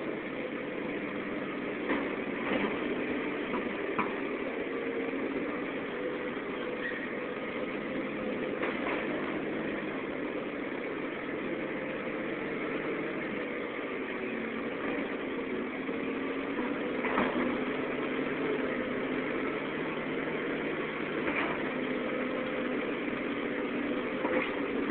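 Caterpillar 235 excavator's diesel engine running steadily, with a few brief sharp noises over it.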